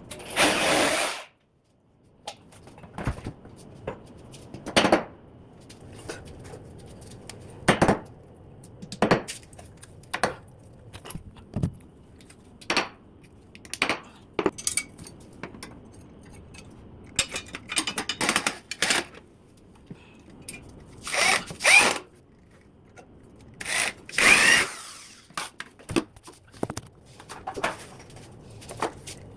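Power drill running in short bursts of about a second, with separate knocks and clatter of tools and wood in between.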